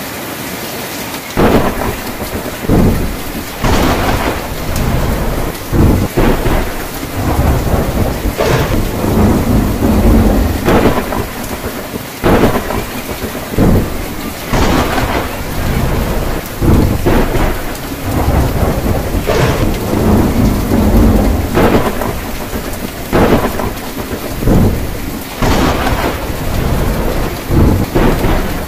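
Heavy rain on a tin roof, a steady hiss, with repeated thunder: sharp cracks every second or two, each followed by a low rumble.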